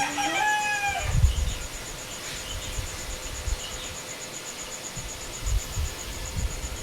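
A rooster's crow trails off about a second in, over a steady, rapidly pulsing insect trill. Gusts of wind buffet the microphone with low rumbles several times.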